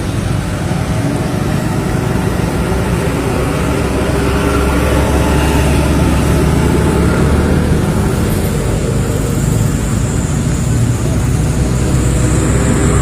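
Steady loud rumble of road traffic and motor-vehicle engines.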